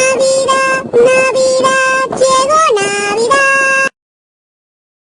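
Synthetic-sounding singing voice, a run of short held notes mostly on one pitch with a dip lower near the end. It cuts off abruptly to dead silence about four seconds in.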